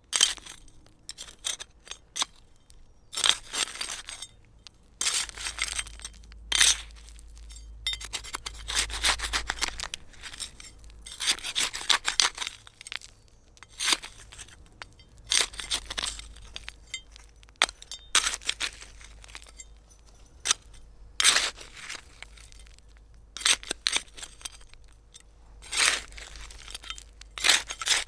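Hand trowel digging into gritty soil, a series of short scraping strokes about every second or two, with small clinks of the blade against grit or stones.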